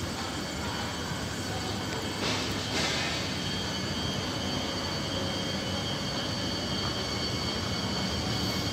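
Alstom Omneo Premium regional double-deck electric train rolling slowly along the platform, with wheel and rail noise and two sharp clicks a little over two seconds in. From about three seconds in a steady high-pitched squeal holds, typical of brakes or of wheels on a curve.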